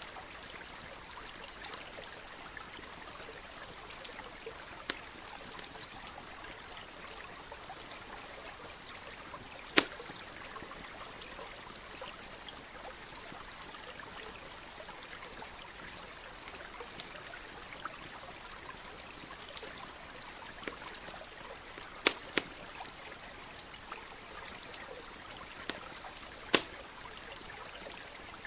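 Stream water trickling steadily under a crackling campfire: scattered sharp pops and snaps from the burning wood, three of them loud, about ten seconds in and twice in the last few seconds.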